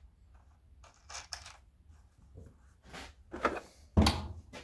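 Scattered plastic clicks and knocks as the air filter and its cover are fitted back onto a Victa 40cc chainsaw, with a heavier knock about four seconds in.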